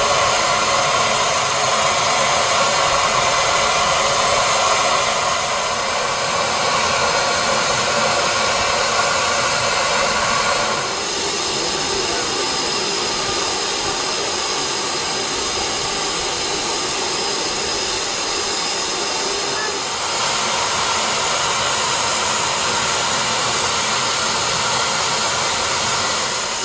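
Steam locomotive blowing off steam: a steady, loud hiss that drops slightly about eleven seconds in and rises again about twenty seconds in.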